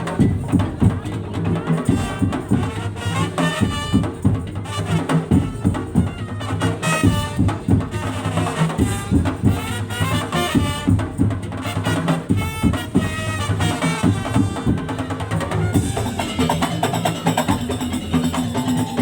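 Madurese tong-tong (daul) ensemble playing: dense, fast percussion from slit drums and drums over steady low pitched notes, with a higher melody coming in and out. The sound gets brighter about three-quarters of the way through.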